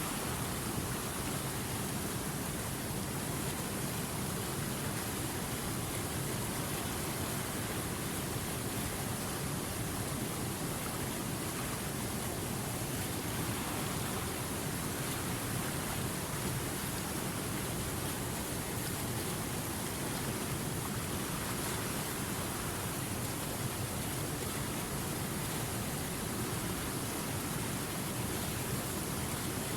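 River water flowing, an even rushing noise that holds steady throughout.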